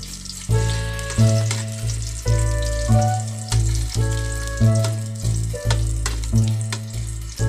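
Ginger, onion and garlic sizzling in hot oil in a metal pot while being stirred with a spoon, under background music with a steady bass beat.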